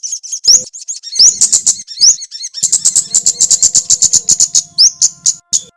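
A small songbird chirping fast and fiercely: rapid, high-pitched notes at roughly ten a second, mixed with quick upward-swept calls, breaking off abruptly twice. This is the aggressive 'pedas' chirping used as a masteran and pancingan to provoke and train caged birds.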